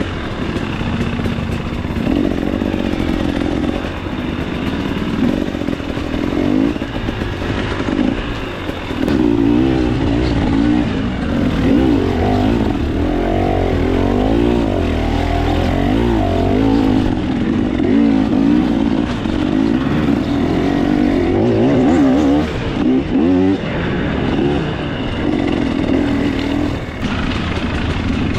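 2024 KTM 300 XC-W two-stroke dirt bike engine running under the rider, revving up and down over and over as the throttle is worked along a single-track trail.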